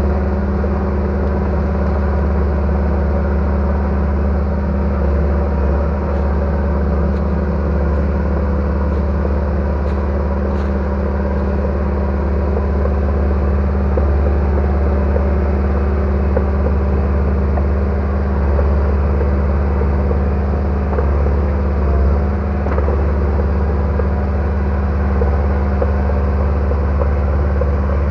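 Bulldozer's diesel engine running steadily at a constant speed, with a deep, even rumble.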